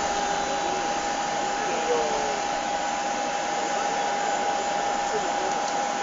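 Boeing 737-700 running during startup: a steady jet rush with a constant high whine.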